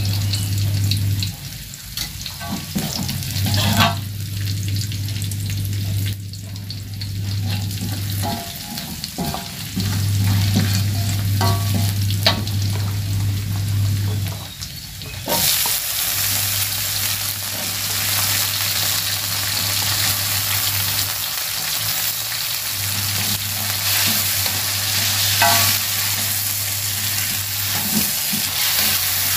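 Sliced onion sizzling in hot oil in a steel wok, with the perforated metal spatula scraping and clicking against the pan. About halfway through, the sizzle suddenly grows much louder and denser as chopped green beans go into the oil and are stir-fried.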